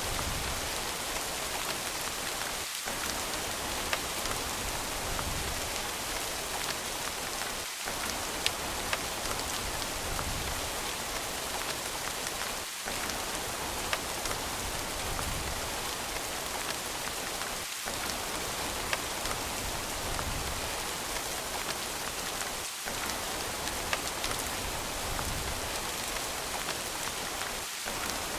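Steady rain falling on a surface, with individual drops ticking sharply here and there. The low rumble drops out briefly about every five seconds.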